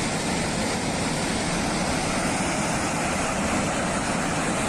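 Torrent of mud and floodwater rushing after a mine water-storage dam gave way: a steady, unbroken roar.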